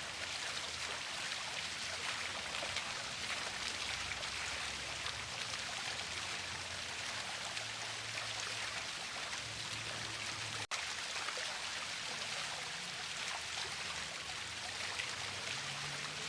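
Waterfall rushing and splashing in a steady, even hiss of falling water, with a momentary break about two-thirds of the way through.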